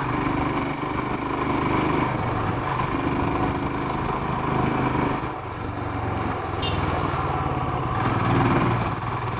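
Royal Enfield Himalayan motorcycle's single-cylinder engine pulling hard in low gear up a steep climb, its note dipping and rising as the throttle and load change.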